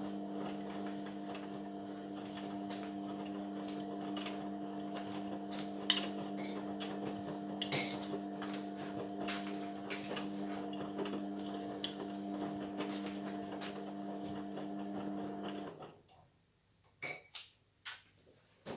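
Indesit washing machine running: a steady motor hum with light clicks and rattles from inside the drum. It cuts off suddenly about sixteen seconds in, followed by a few separate clicks.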